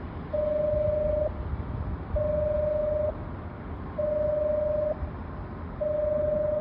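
Electronic warning tone beeping at a railway: four steady one-second beeps with short gaps between them, over a low rumble.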